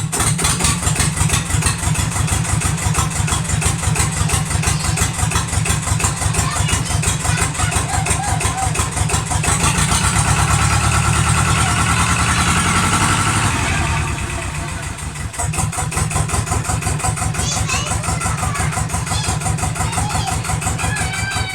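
Albin AD21 marine diesel running after a hand start, with a fast, even knocking beat. About ten seconds in it speeds up and grows louder, then drops back to a slower idle a little after the middle.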